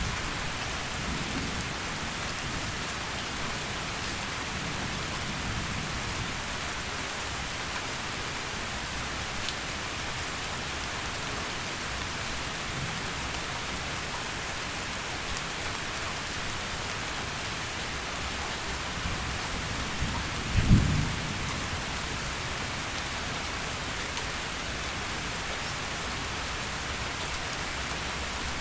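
Heavy rain falling steadily, with thunder rumbling low in the first few seconds and a short, loud clap of thunder about three-quarters of the way through.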